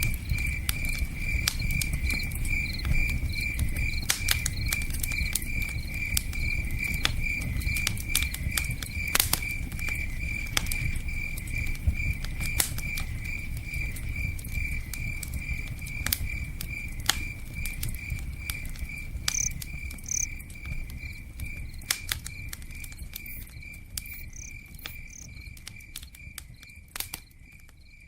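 Crickets chirping in a steady pulsing trill over the crackle and pop of a campfire and the low rush of a river. The whole mix fades out near the end.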